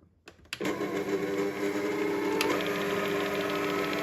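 Electric hand mixer starting about half a second in and then running steadily, beating the batter in a bowl.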